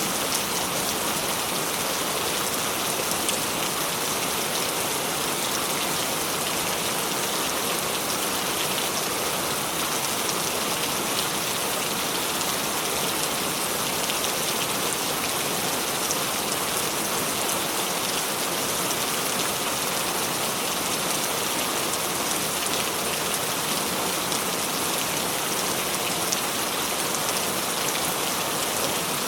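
Steady rain falling, a dense even hiss of drops pattering on a surface, with no thunder.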